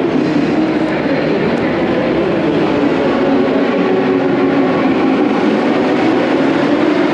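Several racing motorcycle engines running steadily, their pitches wavering slightly.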